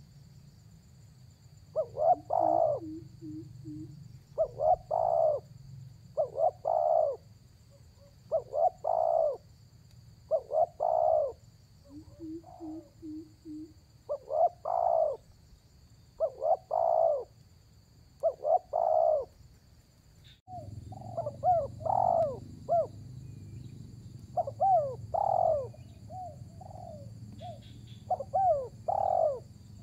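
Spotted dove (tekukur) cooing over and over, a phrase every second or two, with two short runs of soft, low quick notes between phrases. It is the dove's call to a rival. About two-thirds of the way through, the background noise changes abruptly and the coos turn more gliding.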